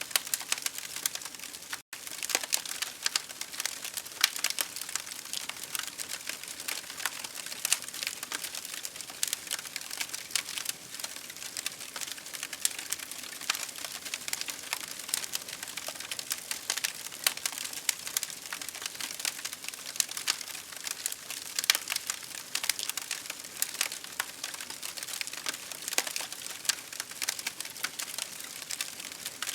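Wood fire crackling: dense, irregular pops and snaps over a steady hiss, with a momentary dropout about two seconds in.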